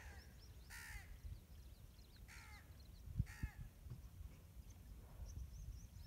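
Birds calling outdoors: four harsh, falling caws spaced about a second apart, with faint high chirps of smaller birds behind them. A low wind rumble on the microphone runs underneath, with a brief thump about three seconds in.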